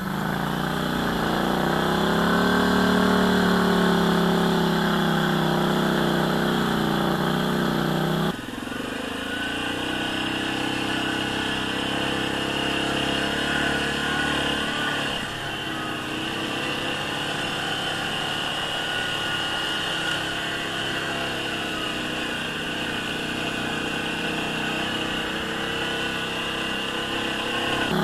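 ATV engine running at low speed, its pitch rising and falling a little. About eight seconds in, the sound changes abruptly to a steadier, slightly quieter engine note.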